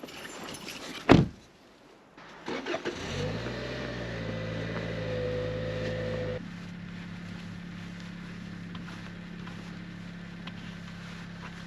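A car door thumps shut, then the car's engine starts about two and a half seconds in and runs at a raised idle. About six seconds in the idle drops and settles into a steady run.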